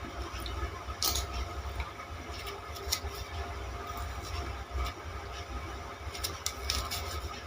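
Chewing and biting on a hard, fibrous green sugar cane stalk to suck out its juice: irregular crunching and cracking clicks, a cluster of them near the end, over a steady low rumble.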